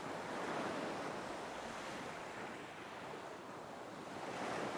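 Ocean waves washing on a shore, a steady surf hiss that swells gently about half a second in and again near the end.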